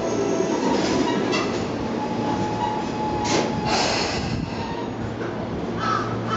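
Tobu 20000 series commuter train pulling in and braking to a stop at a platform: rolling wheel rumble with a thin brake whine, then short hisses about three to four seconds in as it comes to a halt.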